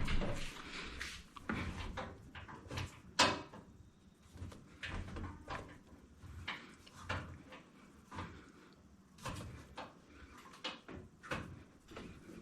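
Scattered knocks, clicks and scrapes, with one sharp knock about three seconds in. These come from handling the adjustable feet of an anti-vibration stand under a front-load washing machine while its height knobs are set so the machine stops wobbling.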